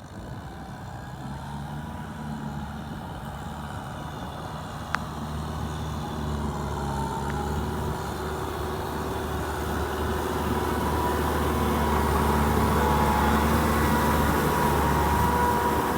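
Kubota tractor's diesel engine running steadily, growing louder over the second half, with a single sharp click about five seconds in.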